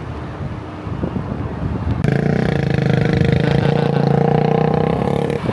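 A vehicle horn held steadily for about three seconds, starting abruptly about two seconds in and cutting off near the end, over rough traffic and wind noise.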